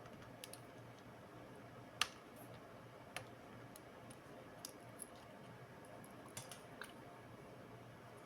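Scattered small clicks and taps from handling laptop parts and tools, with a sharper click about two seconds in and another about a second later.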